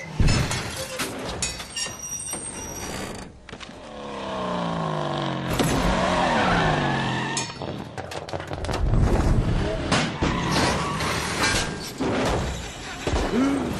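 Animated-cartoon action sound effects: a vehicle engine rising and falling in pitch from about four to seven seconds in, among repeated crashes and knocks.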